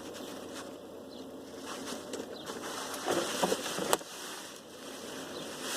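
Rustling and knocking as mesh laundry bags of freshly spun spinach are lifted out of a washing machine drum, with a sharp knock about four seconds in.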